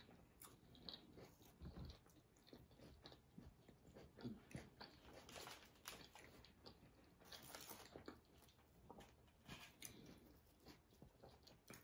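Faint chewing and crunching from eating a sub sandwich and potato chips: scattered soft crunches and mouth clicks at an uneven pace.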